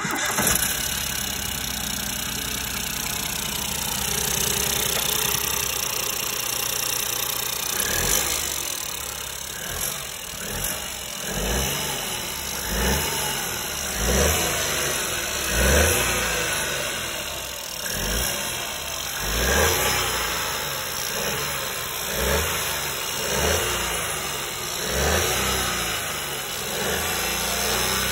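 Ford 1.0 EcoBoost three-cylinder turbo petrol engine, warmed up, running at a steady idle. From about eight seconds in it is revved again and again in short throttle blips, each rising and falling back, roughly every second and a half.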